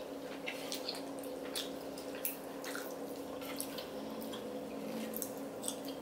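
Close-up wet chewing and mouth clicks of people eating chewy rice cakes and spicy noodles: irregular soft smacks and ticks over a steady faint hum.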